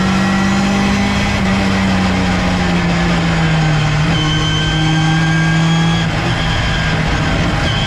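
Ginetta G40 GT5 race car's four-cylinder engine running hard on track, heard onboard. The engine note sinks gradually lower, with a small jump in pitch about four seconds in.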